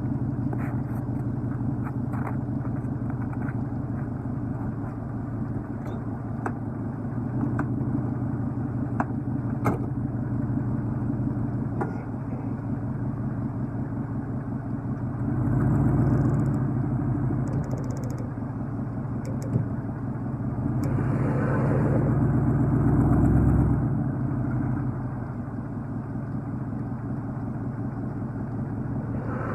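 Truck engine running steadily, revving up under load twice for a few seconds each, as a truck is pulled out of snow.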